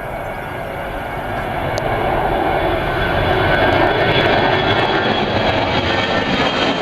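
Airbus A320-214's CFM56 jet engines at takeoff power, a loud rumble that grows louder over the first few seconds and then holds, with a high fan whine running through it.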